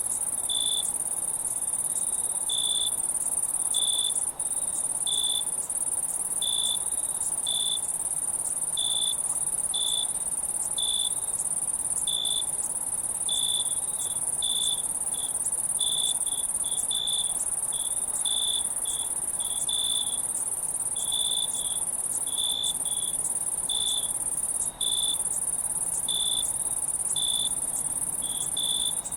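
Crickets chirping: short chirps about once a second, sometimes in quick pairs, over a steady high-pitched insect trill.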